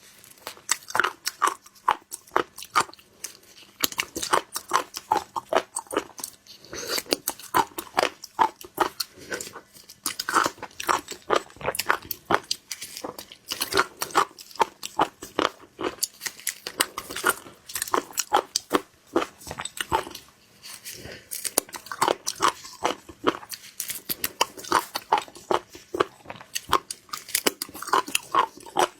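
Close-miked mouth sounds of someone eating mud snails: wet chewing, smacking and crisp crunching clicks, several a second in uneven bursts.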